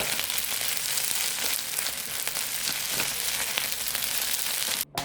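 Food frying in hot oil in a pan: a steady, dense sizzle full of small crackles that cuts off suddenly near the end.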